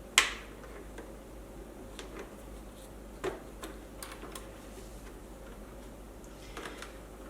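A sharp click just after the start, then scattered light clicks and taps: hands working a wire bundle and its plastic clamp loose inside an electric unicycle's shell.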